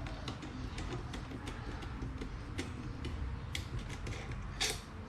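Small irregular clicks and taps of tools and parts being handled while working on an electric fan, with a louder scraping rustle about four and a half seconds in.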